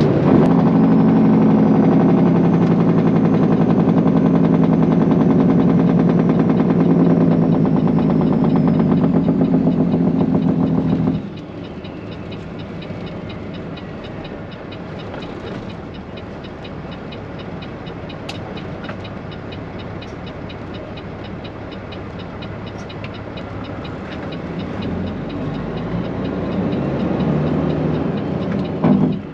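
Straight-piped Peterbilt 389 semi truck's diesel engine running loud and steady under load. About eleven seconds in it drops off suddenly to a much quieter, rattly running, and it builds again near the end.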